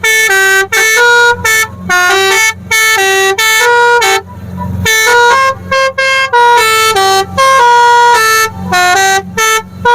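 Telolet Basuri musical horn on a boat, playing a fast melody: a string of short, clear horn notes jumping up and down in pitch, with brief gaps between phrases.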